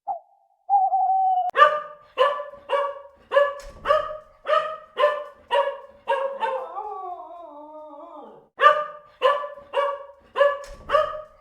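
An animal barking: a rapid series of short, high-pitched barks, about two a second, broken midway by a long falling, howl-like call, then more barks.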